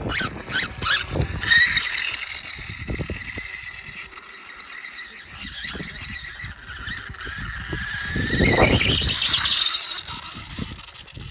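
Brushless electric motor of a 1:4 scale RC dirt bike whining as it speeds up and slows; the whine climbs steadily to its highest and loudest about nine seconds in, then falls away.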